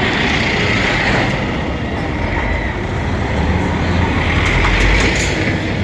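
Heavy lorry driving: steady engine rumble and road noise, growing louder about four to five seconds in.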